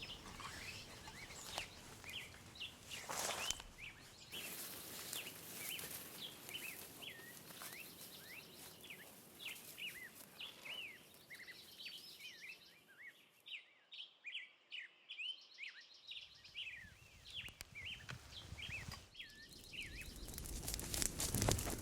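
Faint birds chirping: many short, hooked chirps repeating throughout, with a brief rustle about three seconds in.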